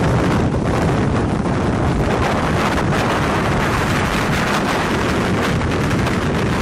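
Strong wind blasting across the microphone: a loud, steady rush of noise that never lets up.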